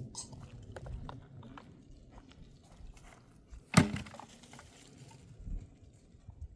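Scattered hard knocks and clicks, with one loud, sharp knock a little under four seconds in.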